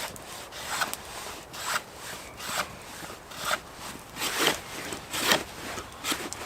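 Hand saw cutting through wood in slow, even strokes, about one a second, growing louder about four seconds in.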